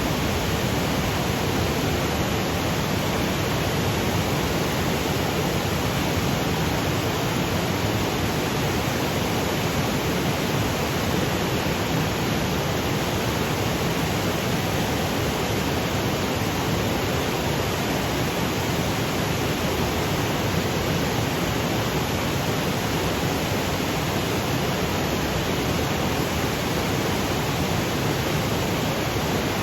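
Waterfall cascading over granite boulders: a steady, even rush of falling water.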